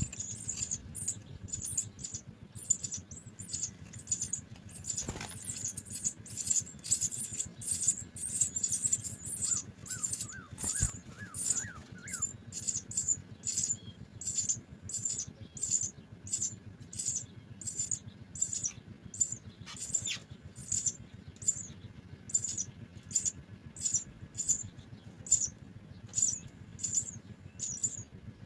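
House sparrows chirping: a thin, high cheep repeated steadily about twice a second, with a short run of quick rising notes about ten seconds in.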